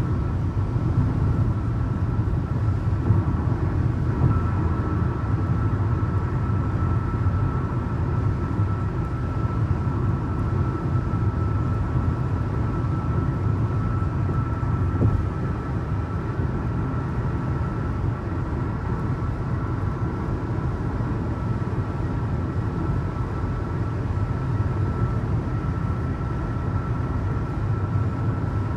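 Steady road and engine noise of a vehicle travelling along a highway, heard from inside, with a faint constant whine over the low rumble.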